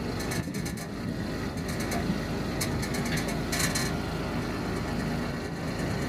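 Suzuki Every kei van idling, with short spells of rapid rattling clicks from around the muffler coming and going several times. The owner suspects a broken rubber exhaust hanger, since the rattle stops when the muffler is pressed.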